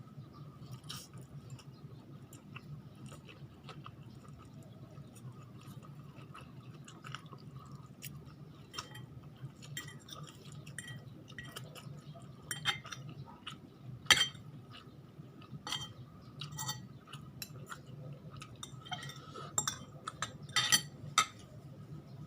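Close-miked eating: chewing and mouth sounds with scattered sharp clicks and clinks of utensils on a dish. The loudest clicks come about two thirds of the way through and in a cluster near the end, over a steady low hum.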